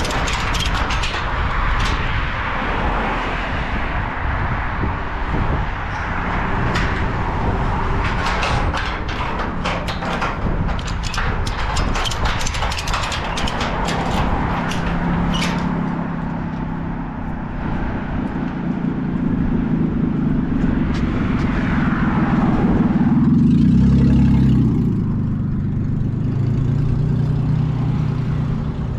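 A motor vehicle's engine running, its pitch rising and falling, strongest a little over three quarters of the way in. Through roughly the first half it is mixed with many sharp clicks and crunches.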